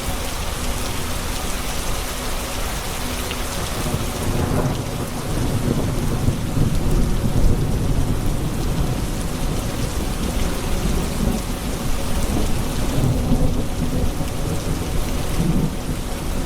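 Steady heavy rain with a long, low rumble of thunder that builds about four seconds in and rolls on through the rest of the stretch.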